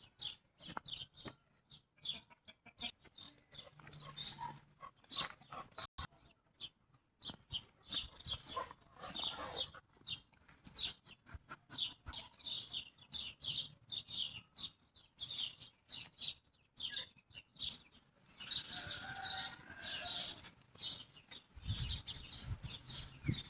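Chickens calling: many short, high-pitched calls throughout, growing busier and louder for a couple of seconds near the end.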